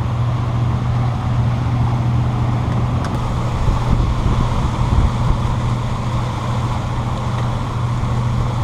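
A twin-engine fishing boat's engines running steadily, a constant low drone with wind and rushing noise over it.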